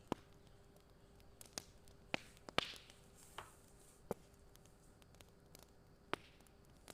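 Fire crackling: about seven scattered sharp pops at irregular intervals, the loudest a little past the middle, over a faint steady hiss and hum.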